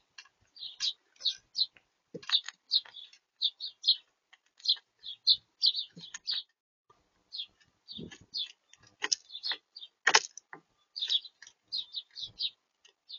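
Small birds at a feeder chirping in quick, short notes, over and over, with scattered sharp taps and knocks mixed in.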